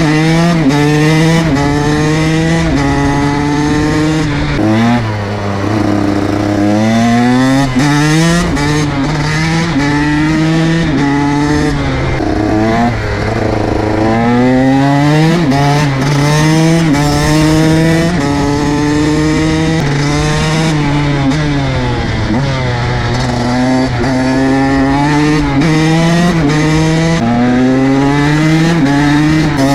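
KTM SX 125 two-stroke single-cylinder engine being ridden hard, its pitch climbing through each gear and dropping back at every shift. It eases to a lower, steadier note about five to seven seconds in, then pulls up through the gears again several times.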